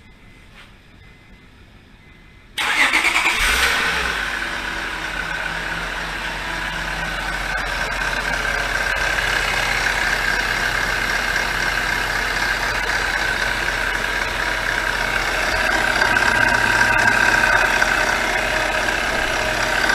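Honda Accord engine starting about two and a half seconds in, with a brief flare as it catches, then settling into a steady idle with a steady high whine over it. It is the first start after a valve cover gasket replacement, with the catalytic converter emptied out.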